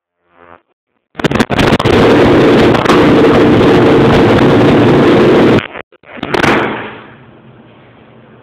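The 2007 Baja X250 Extreme's engine running very loud, with a few sharp pops as it comes in, overloading the phone's microphone, then cutting off suddenly. A short loud burst follows, then a low steady hum.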